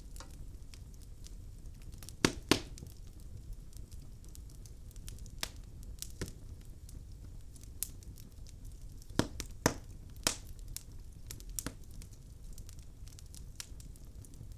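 Log fire crackling in a fireplace: scattered sharp pops and snaps over a low steady rumble, the loudest pops a little over two seconds in and again around nine to ten seconds.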